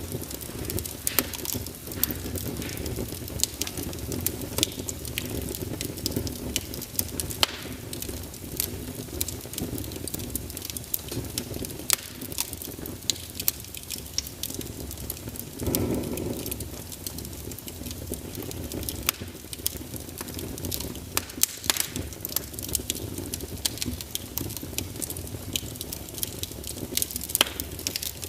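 Wood fire burning in a fireplace: a steady low rumble of flames with frequent sharp crackles and pops from the burning logs, and a brief louder puff of flame about halfway through.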